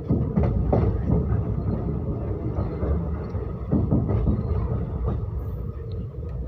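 Train running on the rails: a steady low rumble with a few sharp clacks of the wheels, near the start and again about four seconds in.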